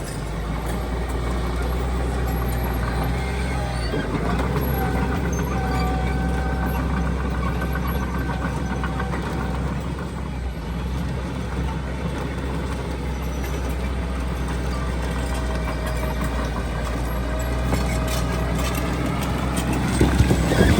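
Diesel engine of heavy earthmoving machinery running steadily under load, with a faint whine above the engine note. It grows louder near the end with some clanking.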